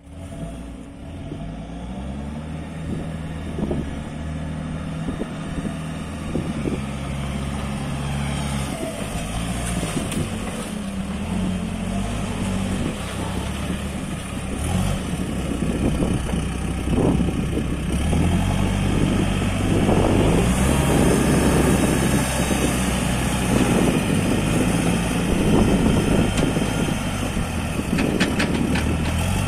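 Case 695ST backhoe loader's diesel engine running, its speed stepping up and down repeatedly. It grows louder and rougher from about two-thirds in.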